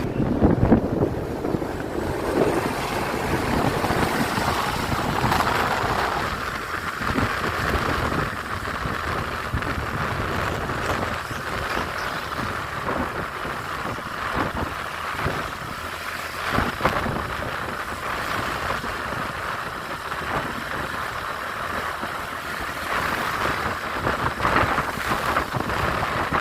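Truck and road traffic noise with wind buffeting the microphone.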